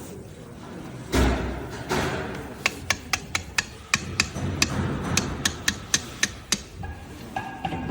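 A dull thump, then a quick run of about a dozen sharp taps over some four seconds, like light hammering or tapping during grinder assembly work.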